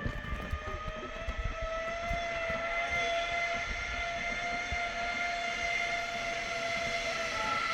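Zip line trolley running along the steel cable, giving a steady high whine over a rough low rumble of wind on the microphone.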